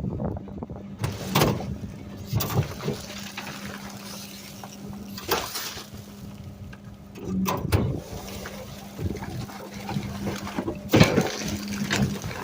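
Refuse truck hopper with a steady low hum running, broken by a few sharp knocks and clatters.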